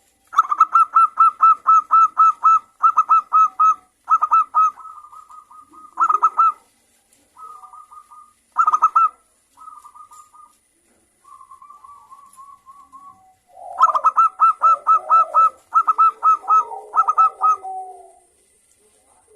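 Zebra doves (local perkutut) singing: bursts of rapid, stuttering coos, several birds answering one another. A lower, rougher call overlaps them in the last few seconds.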